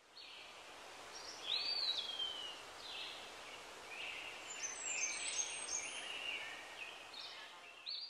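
Birdsong over a steady hiss: several high chirps and whistles, including one whistled note that slurs downward about a second and a half in.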